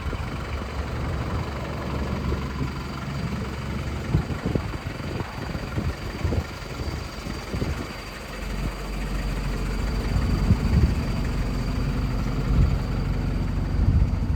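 MAN TGL 7.150 truck's four-cylinder diesel engine idling steadily, with a few short knocks in the middle and the low rumble getting stronger after about eight seconds.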